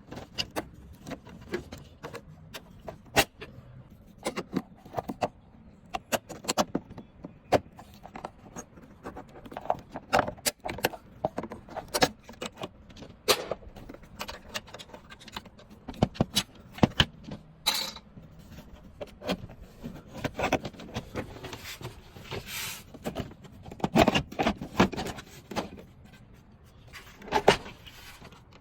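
Irregular metallic clinks, taps and knocks of hand tools and parts being handled, with no steady motor sound.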